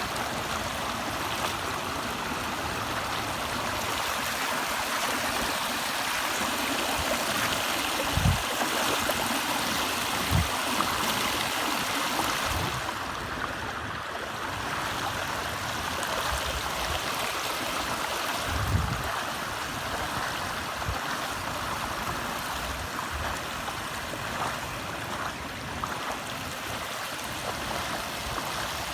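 Rainwater rushing steadily in heavy rain, with a few dull low thumps.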